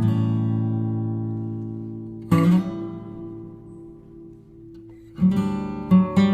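Background music on acoustic guitar: a strummed chord rings out and fades, a second chord is struck about two seconds in, then quicker picked notes begin near the end.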